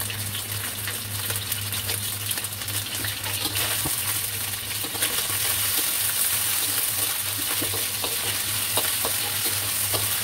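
Diced pork sizzling in a hot wok while a metal spatula stirs and scrapes it, frying the meat toward golden brown; the sizzling grows a little louder after a few seconds. A steady low hum runs underneath.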